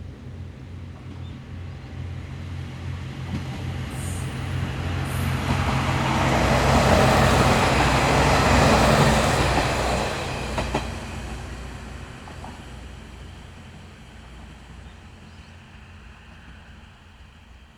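Two-car KiHa 40 and KiHa 47 diesel railcars passing by: a low diesel engine drone and wheel-on-rail rumble that grow louder to a peak about halfway, with a couple of sharp clacks, then fade away.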